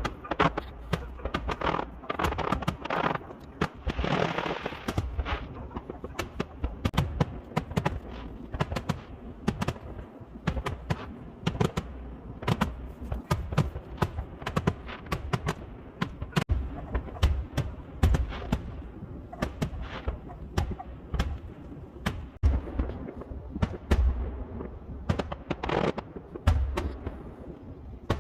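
Fireworks going off in quick succession: many sharp bangs and crackles over a low rumble, with a hissing burst about four seconds in.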